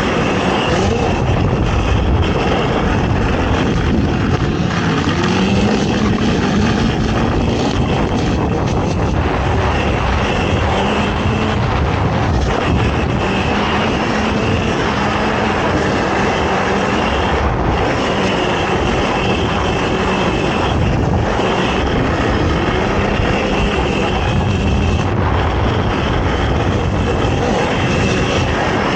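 Racing ATV engine running hard over rough off-road ground, its pitch rising and falling as the throttle is worked.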